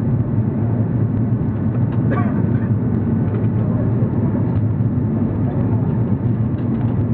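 Steady low rumble of an Airbus A340-300's four CFM56 engines and the rushing airflow, heard inside the passenger cabin in flight. A brief faint sound comes through about two seconds in.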